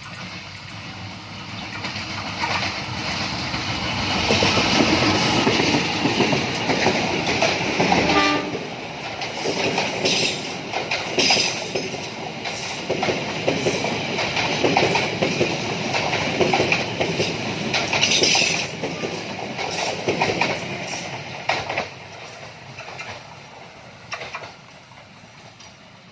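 A train passing over a level crossing: its rumble and wheel clatter build up, stay loud for most of the time, and fade away near the end. A short horn note sounds about eight seconds in.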